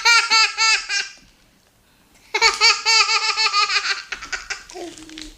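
A young child laughing in two high-pitched bouts of quick repeated pulses: one at the start and another from about two seconds in, with a short pause between.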